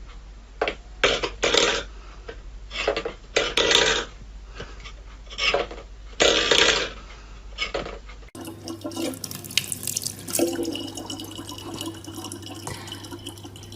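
Water splashing in short irregular bursts, then, after a cut about eight seconds in, water running with a low steady hum underneath.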